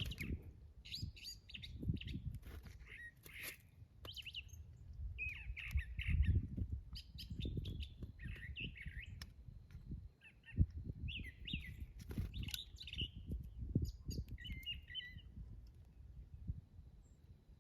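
Backyard songbirds chirping and twittering in quick, repeated short calls that die away near the end, over a low rumble.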